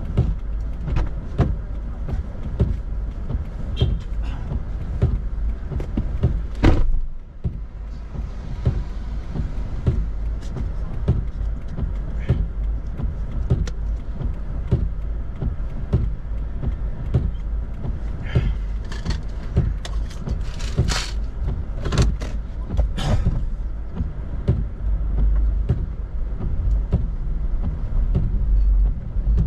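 Car running with a steady deep rumble, with scattered clicks and knocks throughout and a cluster of louder knocks about two thirds of the way in.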